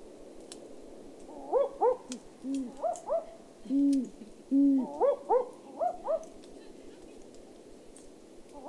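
Barking owl calls played back over a loudspeaker: short dog-like barking notes in quick pairs, repeated several times, with deeper single notes in between. The calling stops about six seconds in.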